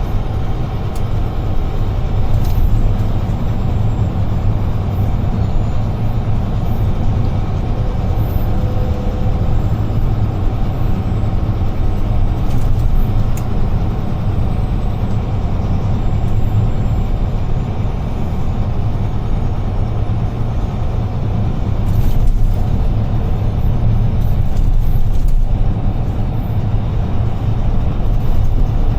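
UD Trucks Quon heavy truck on the move, heard from the cab: a steady low engine drone with road and tyre noise.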